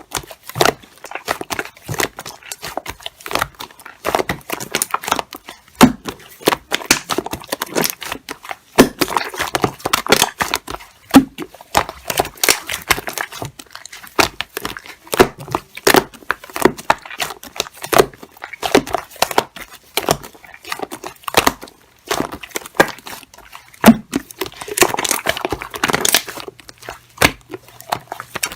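Computer keyboard being typed on: a rapid, uneven clatter of keystrokes, several a second, with a brief pause about 22 seconds in.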